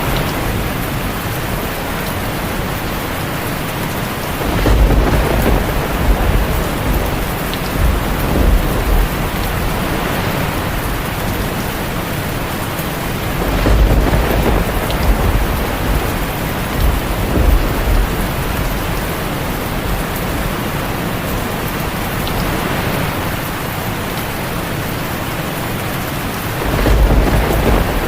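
Steady heavy rain, with rolling thunder rumbling low three times: about four seconds in, midway, and again near the end.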